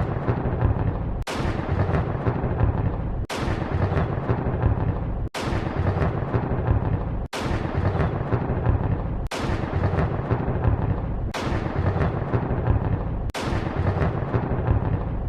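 Thunder sound effect looped: a sharp crack about every two seconds, each followed by heavy rumbling that runs into the next.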